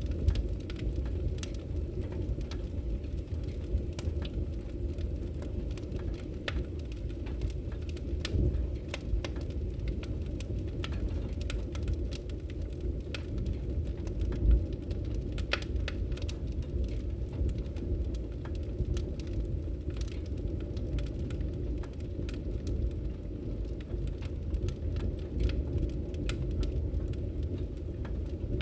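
Wood fire burning in a fireplace: a steady low rumble of flames with scattered small crackles and pops, and one louder pop about halfway through.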